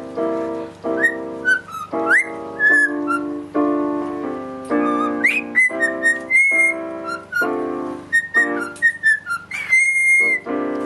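A whistled tune of short notes, several of them quick upward sweeps, over piano chords that change about once a second.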